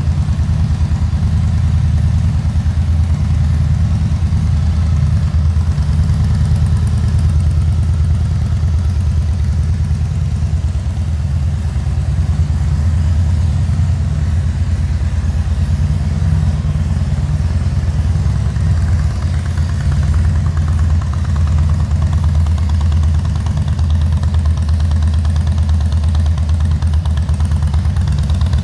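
Harley-Davidson Fat Boy's air-cooled V-twin engine idling steadily, a deep, even low rumble.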